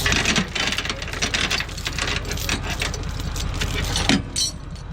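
A vehicle engine running steadily, with scattered clicks and rattles over it and a louder sharp knock about four seconds in.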